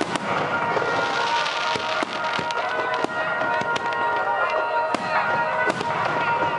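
Fireworks going off: a sharp bang right at the start, a spell of crackling, then more bangs roughly every second. Steady music plays underneath.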